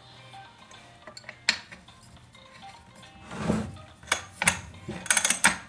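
Metal tools and parts clinking and knocking as they are handled on a workbench, with two short swells of noise about three and a half and five seconds in.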